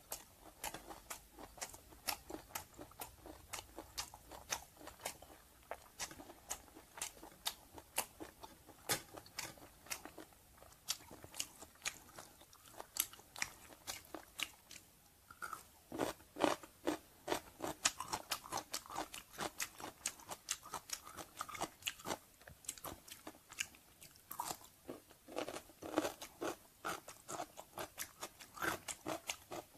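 Close-miked chewing with many quick, sharp crunches, growing louder and denser about halfway through as a crisp Khmer pickled cucumber is bitten and chewed.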